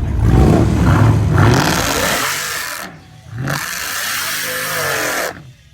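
Car engines revving hard and passing close by in two loud surges, with a short dip between them; the sound cuts off sharply near the end.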